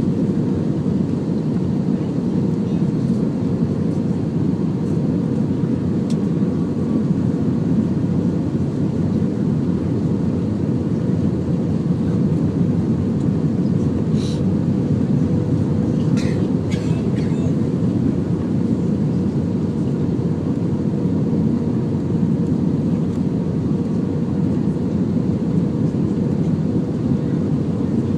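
Airbus A320 cabin noise: the steady drone of the jet engines and airflow, with a constant hum running through it, heard from inside the passenger cabin. A few faint clicks come a little past halfway.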